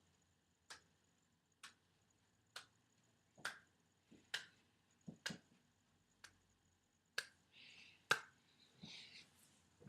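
A series of sharp, brief clicks, about one a second, nine or so in all, with two short hissing sounds near the end.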